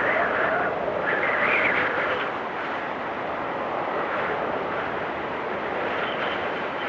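Blizzard wind blowing steadily, with two stronger gusts in the first couple of seconds and a faint high whistle near the end.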